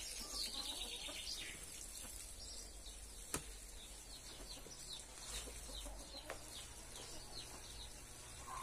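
Birds chirping in short, high, falling calls, repeated over and over, with one sharp click about a third of the way in.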